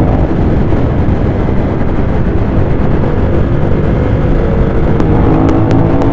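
Ducati Monster 821's L-twin engine running steadily at road speed through its stock exhaust, mixed with rushing noise from the ride. A few sharp ticks come in near the end.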